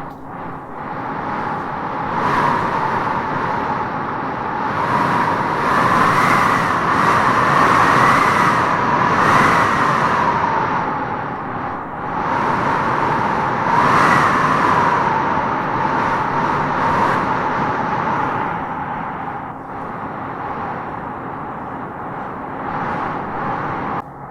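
Wind howling in gusts through trees: a steady rush with a wavering, whistling tone that rises and falls as each gust swells. The gusts are strongest in the first half and ease off toward the end.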